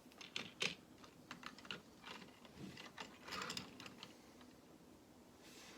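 Small plastic Lego pieces being handled and fitted, a run of light, irregular clicks and clatters, busiest about three seconds in and dying away near the end.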